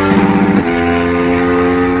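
Superbike engine revving through its exhaust, held at a steady high pitch, with a brief dip about half a second in.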